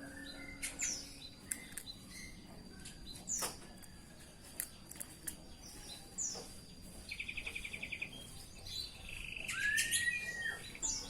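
Canary chirping in short, scattered high calls, with a fast trill about seven seconds in and a longer rising-and-falling note near the end.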